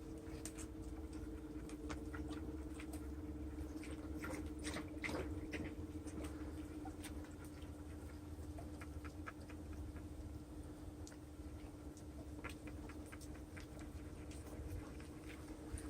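Faint steady hum with scattered light clicks and taps.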